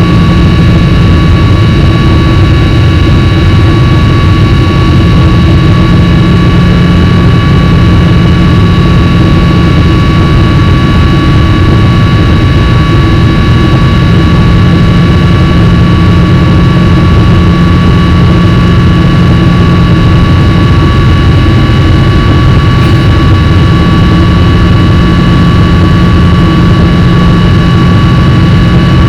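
Boeing 777-300's jet engines running steadily: a loud, even rumble with several high steady whining tones over it.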